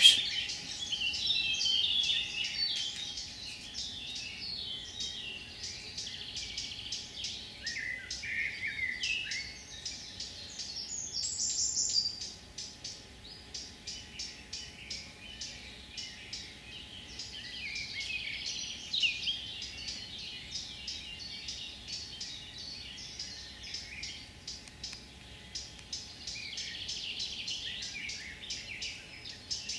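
Songbird singing varied chirping phrases, with a fast high ticking running through much of it.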